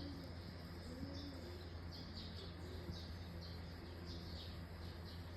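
Small birds chirping in the background with short, repeated high chirps, several a second, over a faint steady low hum.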